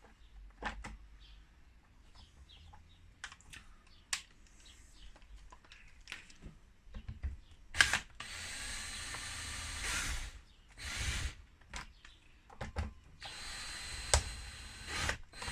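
Small parts clicking and clattering as the chainsaw is handled, then a cordless drill-driver running in three short runs, driving screws in as the chainsaw's cover goes back on.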